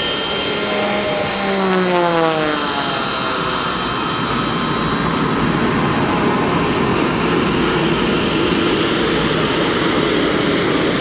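Aerobatic airplane flying past, its engine note dropping in pitch as it goes by in the first couple of seconds, then a steady rushing engine noise.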